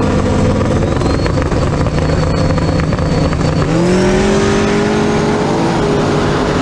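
Drag race car engine at full throttle, its pitch climbing and holding high, then climbing again about three and a half seconds in as the car pulls through the next gear.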